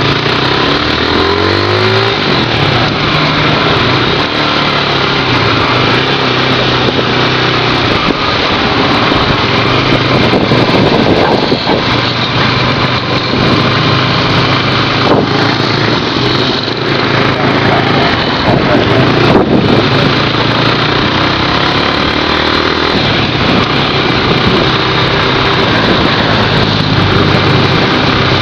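Motorcycle engine running under way, its pitch rising as it speeds up in the first couple of seconds, then holding steady under loud, constant road noise.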